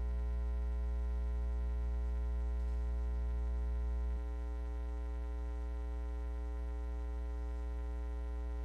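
Steady electrical mains hum with a buzzy stack of overtones, dropping slightly in level about four seconds in.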